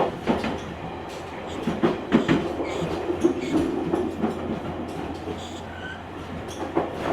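Running noise of a JR Kyushu 883 series electric limited express, heard from the car's vestibule deck. The wheels clack over rail joints in irregular clusters over a steady rumble.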